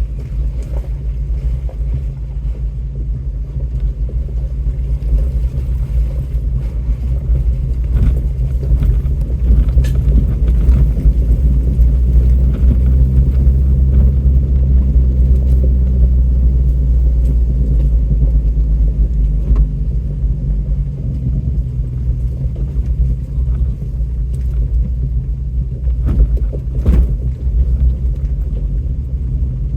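4x4 vehicle's engine running at low speed over a rough dirt trail, a steady low rumble that swells for a few seconds partway through. Occasional sharp knocks and rattles come through, a few seconds apart.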